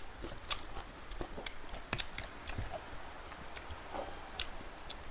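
Close-miked chewing of pork curry and rice: irregular wet mouth clicks and smacks, several each second, over a faint steady low hum.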